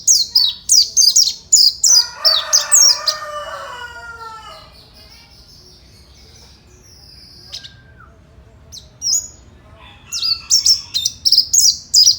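Mountain white-eye singing in rapid bursts of high, twittering chirps, at the start and again about ten seconds in, with a quiet gap between broken by a few single notes. About two seconds in, a lower, drawn-out call with a falling pitch sounds under the song.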